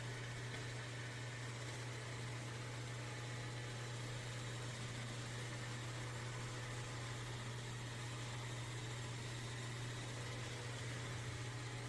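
Dreame L10s Ultra robot vacuum running: a steady low hum with a faint even hiss.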